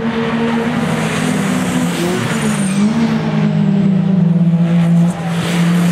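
Race car engines running hard, several at once, one dipping in pitch and climbing again about two seconds in.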